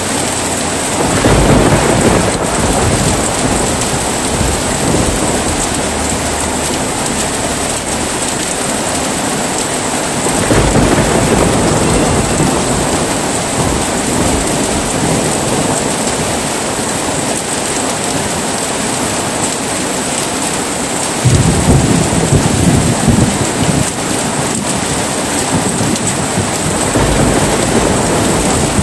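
Steady heavy rain with three rolls of thunder, about ten seconds apart: one about a second in, one about ten seconds in, and one about twenty-one seconds in.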